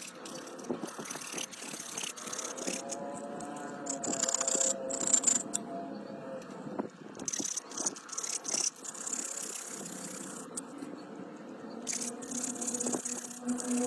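Rattling, clicking and scraping of parts and tools being handled, with many irregular knocks.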